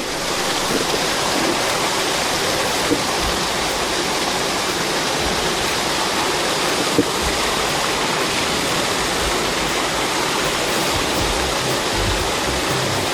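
Steady, even rush of flowing water, with two small clicks about 3 and 7 seconds in.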